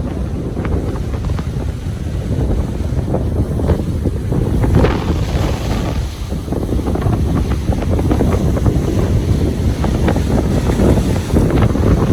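Ocean waves washing on a beach, with heavy wind buffeting the microphone as a loud low rumble.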